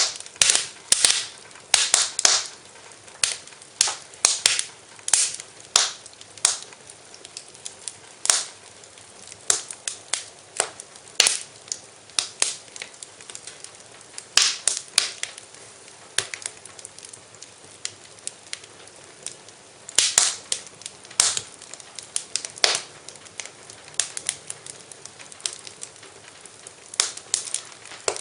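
Wood fire crackling in a fireplace: irregular sharp snaps and pops, some in quick clusters, over a faint steady hiss.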